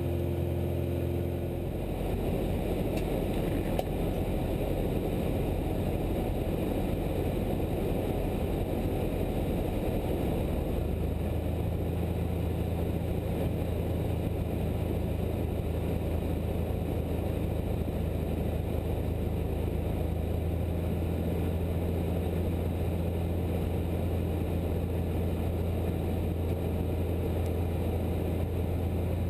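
Cessna 172's piston engine and propeller droning steadily, heard from inside the cockpit. The engine note shifts about two seconds in and again around eleven seconds in, as power is changed.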